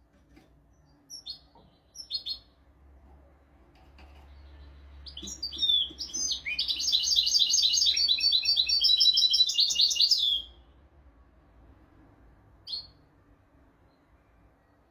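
European goldfinch singing. A few short twittering call notes come first, then a rapid, trilled song phrase of about five seconds, then one more short note near the end.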